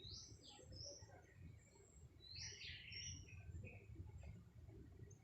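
Birds chirping: several short, high chirps, with a busier run of calls about halfway through, over a faint low rumble.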